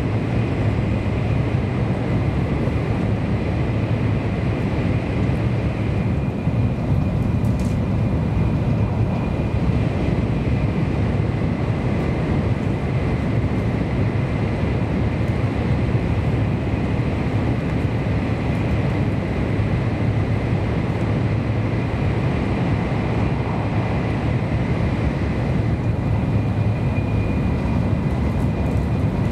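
Steady running noise of a Kyushu Shinkansen N700-series train heard inside the passenger cabin: a deep, even rumble with a thin high hum over it.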